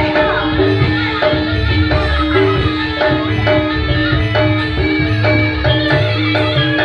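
Campursari band playing an instrumental passage: a steady drum beat under evenly repeating struck notes.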